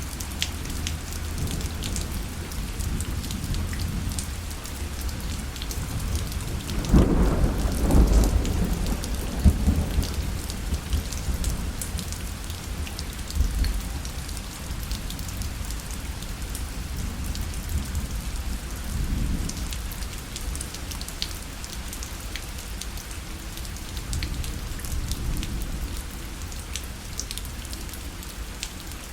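Steady rain pattering on a parasol, with fine drop ticks throughout. A roll of thunder rumbles about seven seconds in and dies away over a few seconds.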